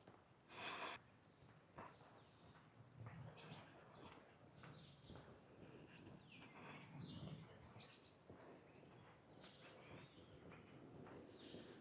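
Faint birdsong: small birds chirping and calling, with a short, very high note repeated every two seconds or so. A brief rustle about half a second in.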